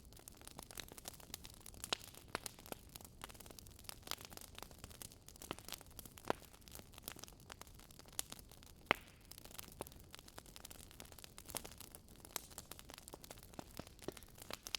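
Campfire crackling: irregular sharp pops and snaps of burning wood over a faint steady hiss, with a couple of louder pops around six and nine seconds in.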